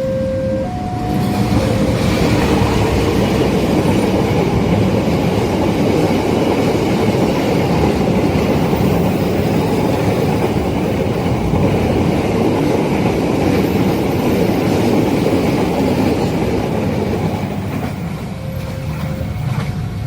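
A long train passes close by at speed, a loud steady rush of wheel and rail noise that builds about a second in and eases off near the end. A level-crossing warning signal's alternating two-note tone sounds at the start and comes back near the end.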